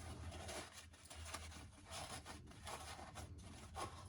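Faint, irregular rubbing and scraping as drain pipe parts fouled with goo are handled, over a low steady hum.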